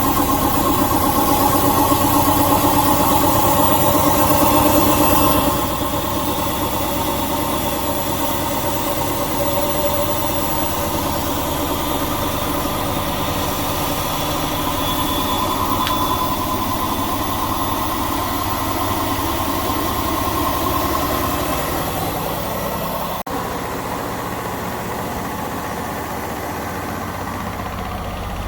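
Indesit 1400-spin washing machine running a spin: the drum motor whirs steadily with the drain pump on, and the sound drops down a step about five seconds in.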